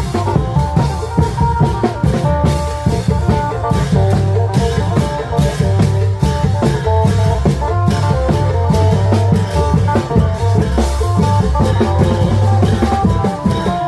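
Isan long-drum (klong yao) band playing a lively procession tune: a phin melody line over a driving beat of long drums and other percussion.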